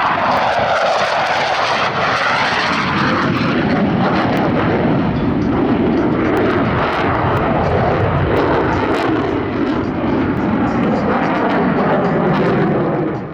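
Jet engines of US Navy Blue Angels F/A-18 Hornets passing overhead with a loud, continuous jet roar. The pitch falls over the first couple of seconds, then a second pass swells and fades.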